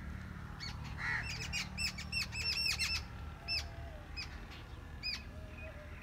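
Wild birds calling in the trees: short, sharp chirps come in a rapid run between about one and a half and three seconds in, then scattered singly, with one harsher call about a second in.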